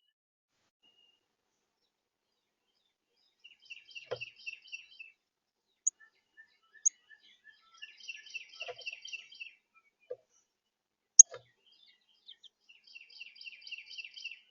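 Carolina wren singing: three bursts of a rapidly repeated ringing phrase, several seconds apart. Between the bursts come a few sharp, high chip notes, one of them the loudest sound, and a few faint knocks.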